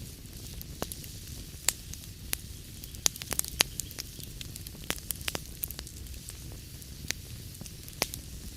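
Wood fire burning in a fireplace: irregular sharp crackles and pops over a steady low rumble and hiss, with a quick cluster of pops about three seconds in.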